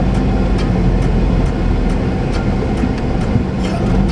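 A car driving: a steady low engine and road rumble with faint scattered ticks.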